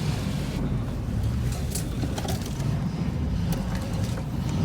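Vehicle engine running steadily at low speed, a low rumble, with a few scattered clicks and rattles.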